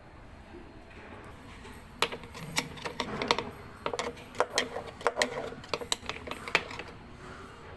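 A run of irregular sharp clicks and knocks, like hard parts being handled or tapped. They start about two seconds in and stop near the end.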